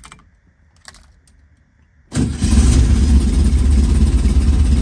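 A few faint clicks, then about two seconds in the 1967 VW Type 3's air-cooled flat-four engine is heard running at a steady idle, loud and even, just after starting. The engine is newly rebuilt and still in its break-in.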